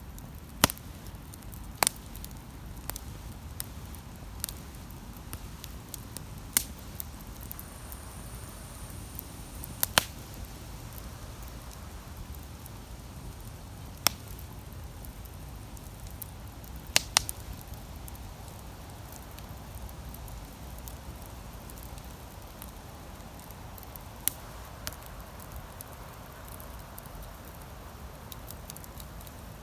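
Wood campfire crackling, with single sharp pops every few seconds over a low steady background.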